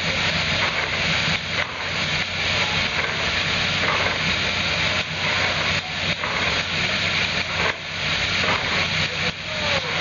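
C57 steam locomotive standing with steam hissing steadily, over a low steady hum.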